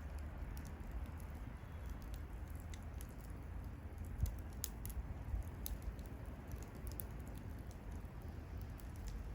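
Wood bonfire crackling: irregular sharp pops and snaps over a low steady rumble, with one louder pop about four seconds in.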